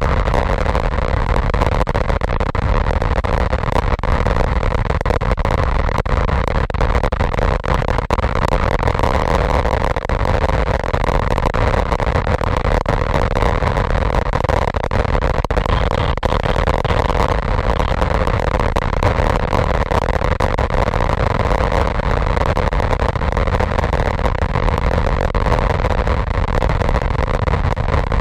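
Steady wind rush and engine noise from a BMW 310 motorcycle's single-cylinder engine being ridden hard at about 120 km/h, holding an even level throughout.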